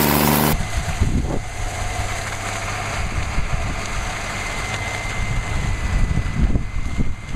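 A heavy machine's engine running. A louder, evenly pitched drone cuts off about half a second in, leaving a low rumble with irregular knocks and crunches.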